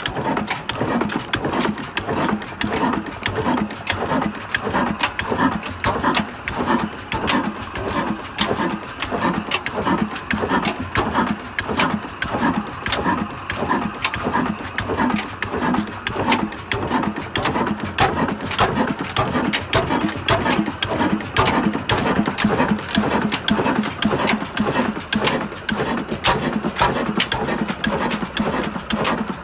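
Heavy old Ruston Hornsby-type 35 HP stationary diesel engine running, with a steady rhythmic beat of regular firing strokes and clattering.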